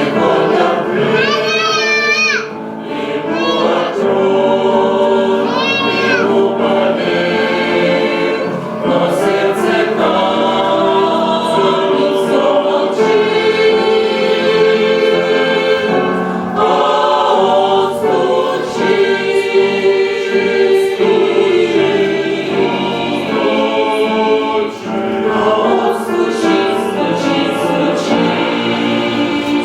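Church choir singing a Christian hymn in sustained, held notes. Twice in the first few seconds a high voice with a wide vibrato stands out above the rest.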